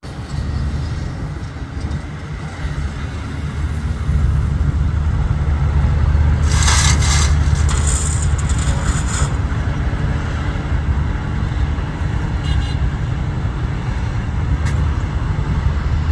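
Heavy diesel earthmoving machinery running with a steady low rumble. A hissing noise joins about six and a half seconds in and lasts about three seconds.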